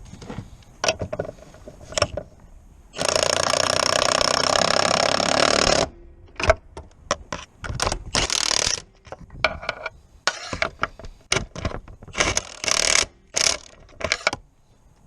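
Tool work on a car: a loud, steady machine whirr for about three seconds, then a string of short clicks, scrapes and brief bursts.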